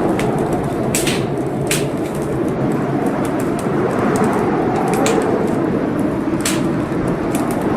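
Wood fire burning in a fireplace, with sharp, irregular crackles and pops over a steady rushing noise.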